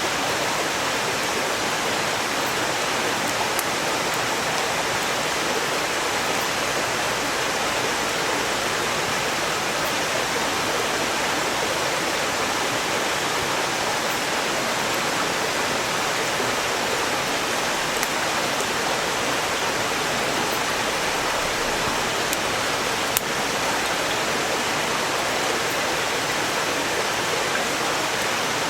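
Mountain stream rushing steadily, an even wash of water noise, with a few faint crackles and one sharper pop from burning firewood about two-thirds of the way through.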